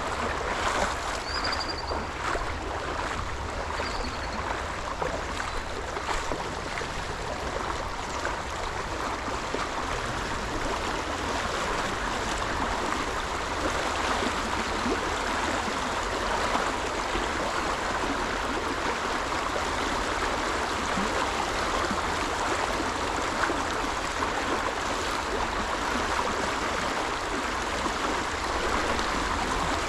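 River water rushing steadily over rocks, a constant even noise. Two short high chirps sound near the start.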